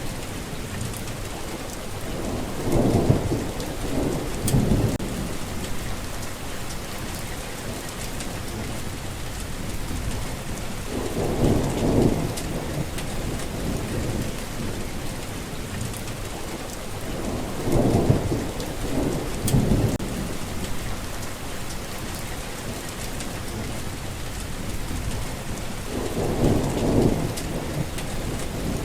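Steady rain falling, with a low thunder rumble rolling in four times, roughly every seven or eight seconds.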